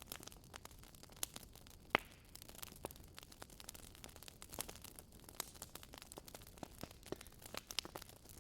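Wood fire crackling in a fireplace: irregular sharp pops and snaps over a soft hiss, with one louder pop about two seconds in.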